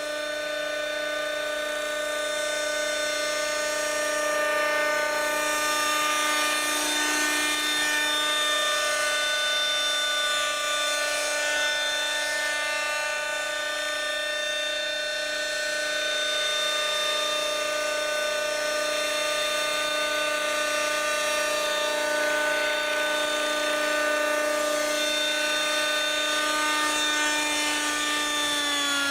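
Schlüter Magic radio-controlled model helicopter running in flight: a steady high engine-and-rotor whine that starts to drop in pitch right at the end.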